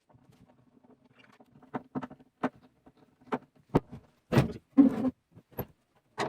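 Irregular clicks and knocks of metal hinge hardware and screws being worked on a wooden chest, with two louder rattling knocks in the middle.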